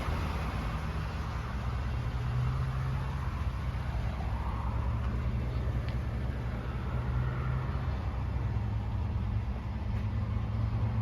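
Ford F-150's 5.0 L V8 idling, a steady low engine hum.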